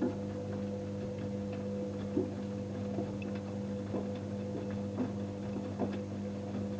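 Electrolux washing machine running: a steady motor hum with irregular light clicks and knocks.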